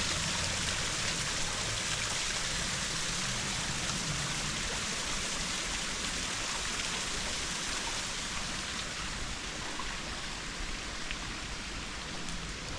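Rainwater running off the moors in a small stream or runoff channel: a steady rush of running water that eases a little after about eight seconds.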